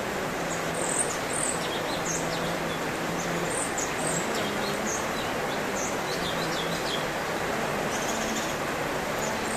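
Songbird calling in quick, short high chirps, scattered through the whole stretch, over a steady background hiss and a low hum.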